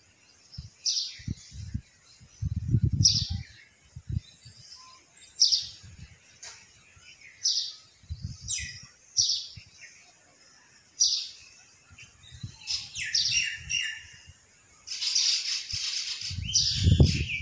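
Bird calling a short, high, downward-sweeping chirp about every two seconds, with a denser run of chirping near the end. A few low rumbles come and go beneath it.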